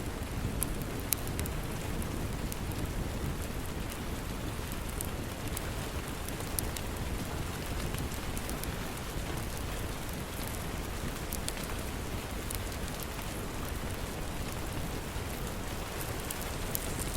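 Steady rain hiss mixed with the scattered small pops and crackles of a wood fire.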